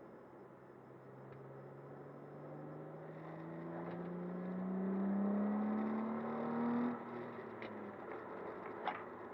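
Car engine through a Vibrant aftermarket exhaust, its revs climbing slowly and steadily for about seven seconds and getting louder, then dropping off as the throttle is let go. A sharp click near the end.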